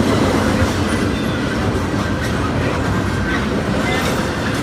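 Double-stack intermodal freight train cars rolling past: a steady rumble and clatter of steel wheels on the rails.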